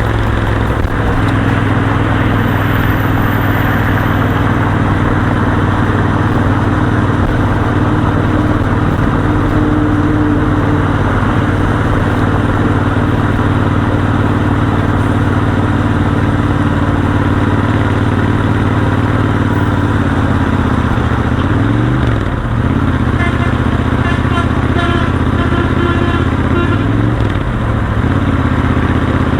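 Royal Enfield Continental GT 650's 648 cc parallel-twin engine running steadily at highway speed, under a steady rushing noise. About two-thirds of the way in, the engine note dips and climbs back up twice.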